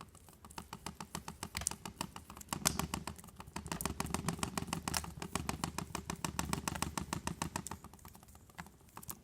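Oil or acrylic paint being worked together on a palette, phthalo green mixed into burnt sienna: a quick, steady run of light clicks and scrapes, busiest from about two and a half seconds in until near the end.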